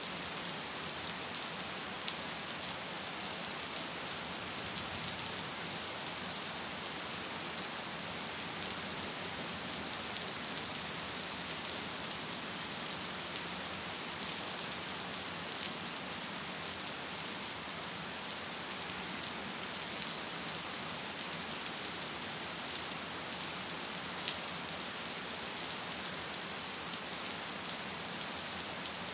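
Steady rain falling: an even hiss with a few sharper raindrop ticks standing out now and then.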